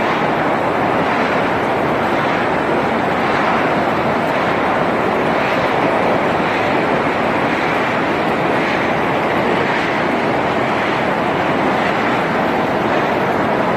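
Electric arc welding running steadily: a continuous crackling, sputtering arc with no breaks, as during hardsurfacing or crack repair on steel plant equipment.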